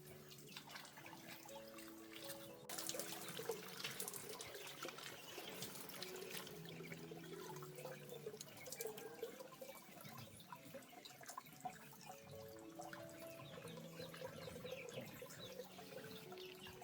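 Water splashing and trickling with small clicks and knocks, getting busier about three seconds in, over soft background music of slow held notes.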